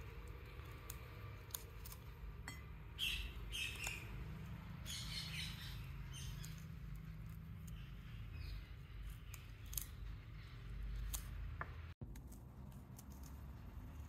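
Alexandrine parakeet eating: scattered short crunches and clicks of its beak on food, with a few brief chirp-like sounds.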